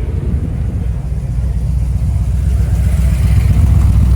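A car engine running and growing steadily louder, with a deep exhaust rumble.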